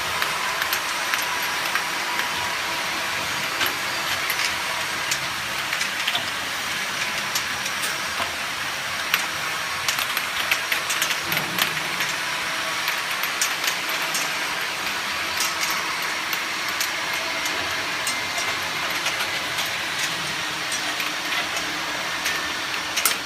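Glass vial washing machine running with its main drive on and the ultrasonic unit off: a steady hiss with frequent small clicks and clinks of glass vials.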